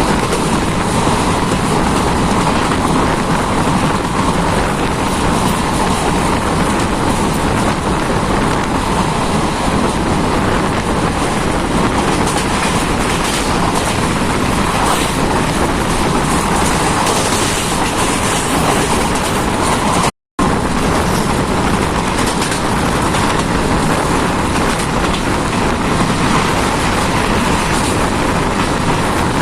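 Jan Shatabdi Express passenger train running along the track: a loud, steady rumble and rattle of wheels on rail, broken by a split-second silent gap about twenty seconds in.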